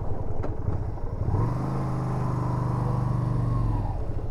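Yamaha SRV250's V-twin engine pulling away: its revs rise about a second in, hold steady, then drop near the end.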